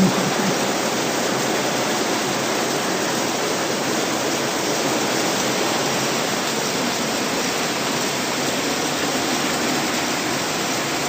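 Steady, even rushing noise with no pitch or rhythm, holding the same level throughout.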